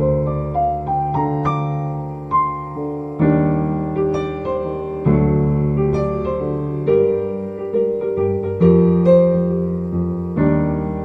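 Solo piano music playing gentle chords and a melody, each note struck and decaying.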